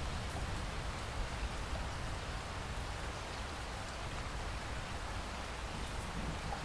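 Steady rain falling, a continuous hiss with a low rumble underneath and faint scattered drop ticks.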